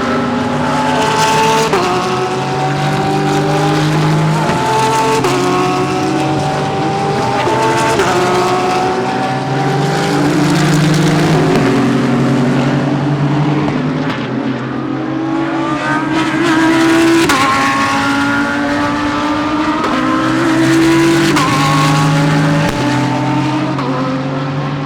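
GT3 race cars accelerating hard, the engines climbing in pitch and dropping back repeatedly as they shift up through the gears, several cars overlapping.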